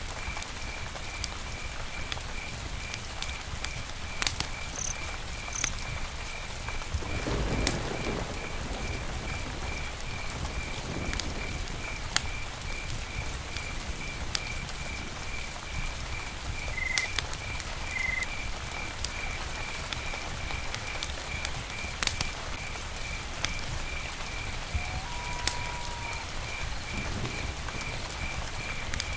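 Campfire burning: a steady hiss with frequent sharp crackles and pops from the burning wood. A high chirp repeats about three times a second throughout, with a dull rumble about seven seconds in and a few brief high whistles.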